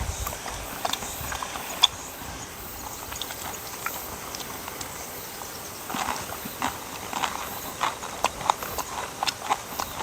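A dog chewing and eating, with irregular wet clicks and smacks that come thicker from about six seconds in.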